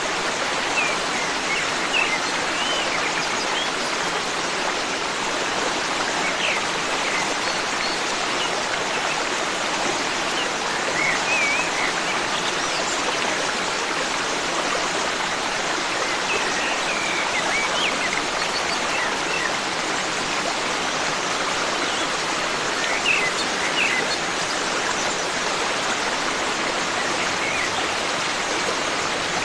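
Forest stream running with a steady rushing sound, with small birds chirping briefly now and then over it.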